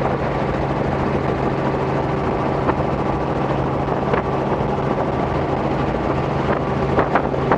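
Robinson R44 helicopter in flight, heard from inside the cabin: a steady drone of the piston engine and rotors that holds an even pitch and level.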